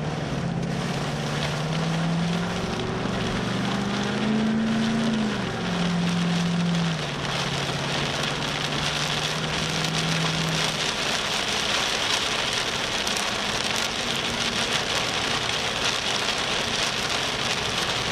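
Dense hiss of rain and gusting wind on a storm-chase vehicle, growing stronger in the second half. In the first ten seconds the vehicle's engine runs underneath, its pitch rising and then dropping back before it fades out.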